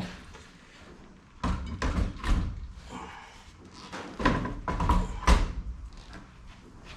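Irregular clunks and knocks of metal parts and tools being handled in a workshop, in two clusters: about a second and a half in, and again from about four seconds, loudest a little after five seconds.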